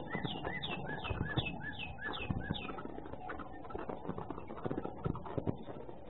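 A bird calling a quick series of short, evenly repeated notes, about three a second, that stops about two and a half seconds in. Scattered soft clicks and ticks run underneath, with a thin, muffled quality from a security camera's microphone.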